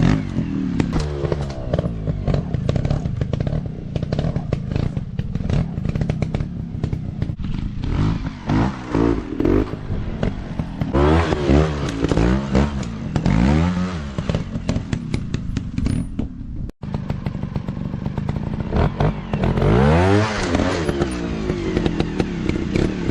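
Small dirt bike engines revving up and down again and again, the pitch rising and falling every second or two under throttle. Frequent knocks and clatter are heard throughout, and the sound cuts out for an instant about 17 seconds in.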